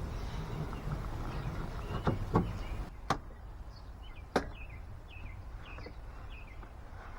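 A few sharp knocks, the loudest about two and a half seconds in, over a low background hum. After that comes a bird-like run of short, falling chirps, about two a second.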